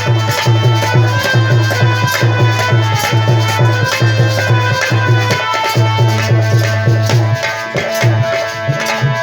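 Instrumental interlude of Indian devotional folk music: a hand drum plays a steady, fast rhythm of deep strokes under held melody notes. The drum pattern breaks up near the end.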